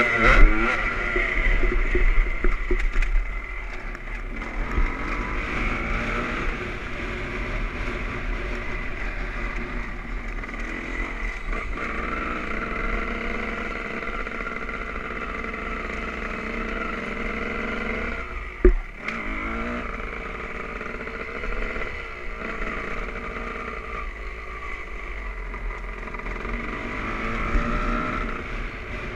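Honda CR250 two-stroke motocross engine running on the track. The revs rise and fall, louder in the first few seconds and steadier after that. A single sharp knock comes about two-thirds of the way through.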